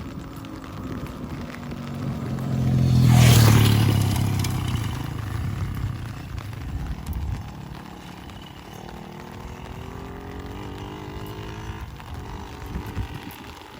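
A motor vehicle passes close by, growing loud to a peak about three seconds in and then fading away, over steady rain. A second engine is heard more faintly later on, rising in pitch.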